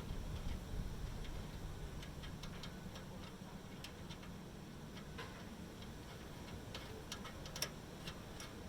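Hand tools clicking and tapping irregularly on metal exhaust parts, with a few sharper clicks near the end, over a low steady hum.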